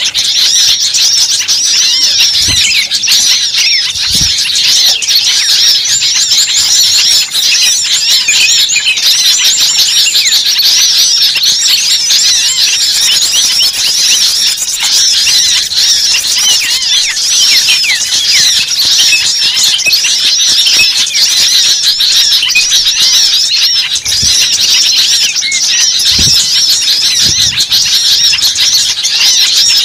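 Dense, unbroken chorus of small songbirds giving rapid high chirps and twitters: a layered bird-lure recording of excited, noisy calls that draws other small birds in. A few faint low thumps sound under it.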